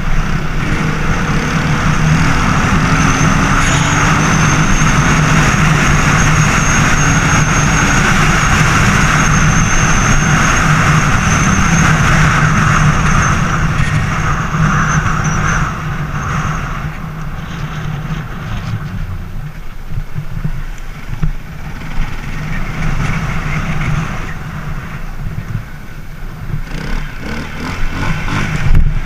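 Racer Panther 300 enduro motorcycle engine running while riding, steady and loud with a thin high whine over it. About halfway through it drops to a lower, uneven throttle, then picks up again near the end.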